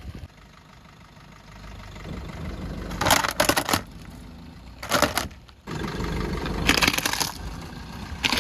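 Earthen clay pots crushed under a car's tyres: loud crunching and cracking in several bursts over a low engine rumble. The first comes about three seconds in, a short one about five seconds in, a longer stretch after six seconds, and one more at the end.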